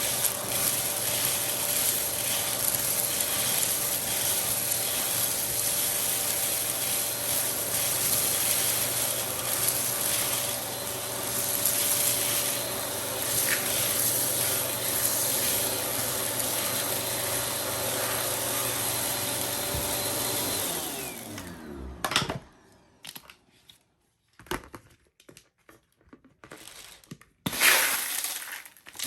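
Vacuum cleaner running steadily, then switched off about 21 seconds in, its motor whining down in pitch as it stops. After that come a few scattered clicks and knocks of handling, one louder near the end.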